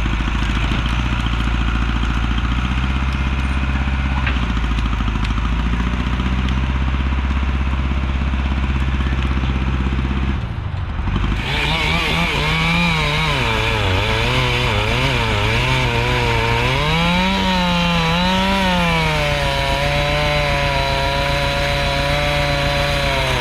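A large engine idling steadily for about ten seconds, then, after a brief break, a chainsaw running and cutting wood, its pitch rising and falling as it is revved through the cut.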